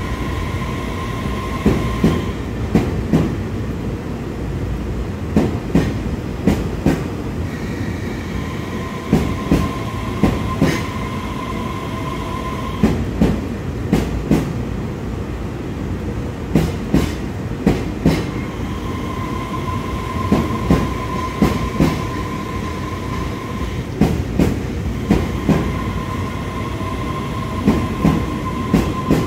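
Running train, with wheels clacking over rail joints in irregular clusters every couple of seconds over a steady rumble. A steady high tone comes and goes for several seconds at a time.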